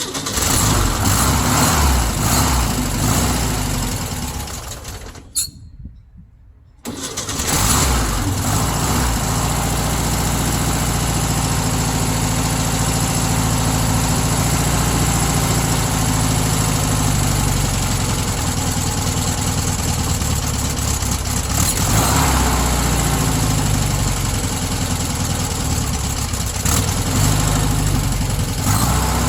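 VW T2 bus's air-cooled flat-four engine running just after a valve-clearance adjustment. It is running at the start, fades away about four seconds in and stops for a moment, then comes back about seven seconds in and runs steadily to the end, its speed shifting a little.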